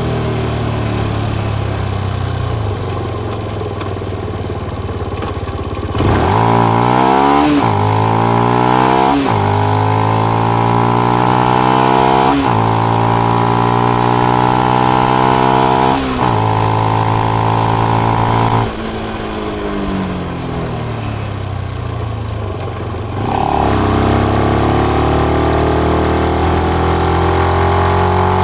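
Benelli BN125 single-cylinder four-stroke engine through its stock exhaust with the dB killer fitted. It first winds down. Then, about six seconds in, it pulls hard, the pitch climbing and dropping back at each of several gear changes. Near the middle it rolls off and winds down again, then pulls up through the revs once more near the end.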